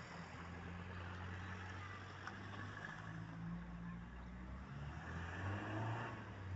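Street traffic: a motor vehicle engine running with a low hum that shifts in pitch, growing louder near the end.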